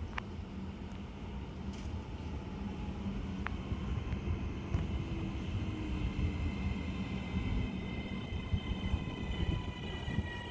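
Train rumbling along the platform, with a faint high squeal of brakes building towards the end.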